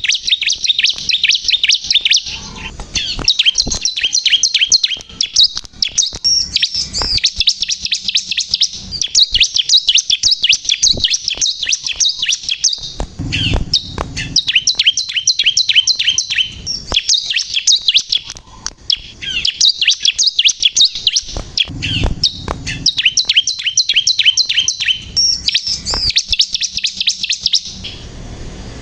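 Ciblek kristal (a prinia) singing vigorously and without let-up: long runs of rapid, sharp, high notes, many per second, in phrases broken by brief pauses. A couple of low rumbles come under the song about halfway through and again later.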